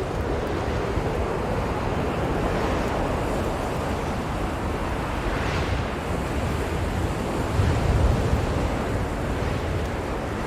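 Blizzard wind blowing as a steady rushing noise with a low rumble, swelling into a stronger gust about eight seconds in.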